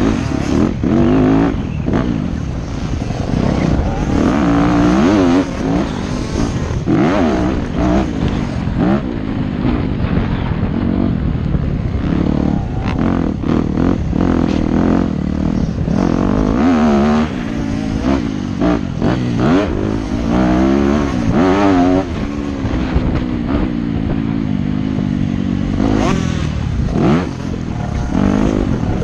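Yamaha YZ250F motocross bike's 250 cc four-stroke single-cylinder engine, ridden hard on a track. It revs up and drops off over and over as the rider shifts and gets on and off the throttle, with scattered knocks and clatter.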